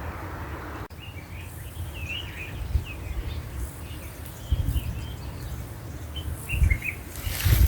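Small birds chirping in short, twittering calls over irregular low rumbling bumps.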